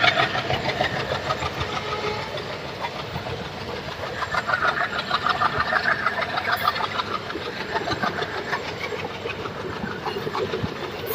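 Express passenger train moving out of a station, its coaches' wheels clattering rapidly and steadily over the rail joints.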